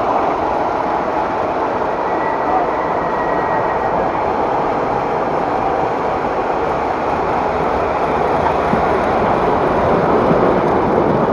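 MTH O-gauge model subway train running along the track, with a steady rolling and motor noise that holds level throughout.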